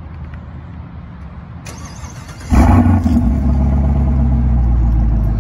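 A 2020 Chevrolet Camaro 2SS's 6.2-litre V8 starting, heard through a Karnage Performance aftermarket exhaust. The starter whirs briefly about a second and a half in, and the engine catches with a loud burst about a second later. It then settles into a steady idle.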